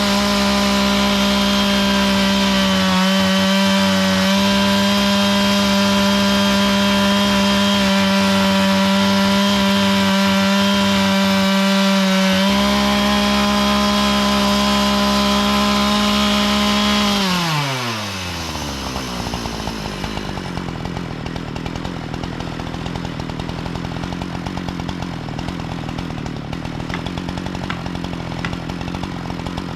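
Chainsaw running at full throttle with a steady high engine note, then the throttle is released about 17 seconds in and the revs fall away to a rough, quieter idle.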